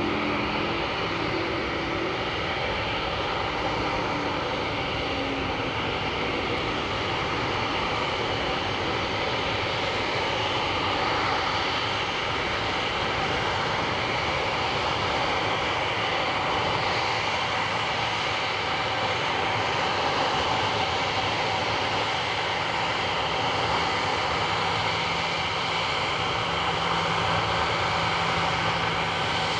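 Airbus A340-313X's four CFM56 turbofan engines running with a steady, loud jet noise. A few steady whining tones sit in it.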